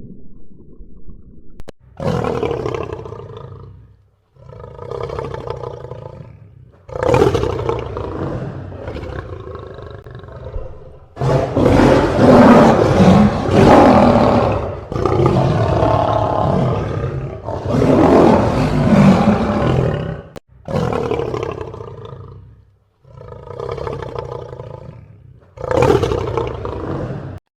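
A large animal giving a series of about nine long, deep calls, separated by short gaps; the calls in the middle are the longest and loudest, and the last few are shorter.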